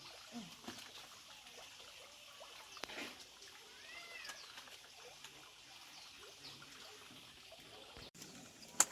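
Faint background with one short animal call about four seconds in, its pitch rising and then falling, and a sharp click near the end.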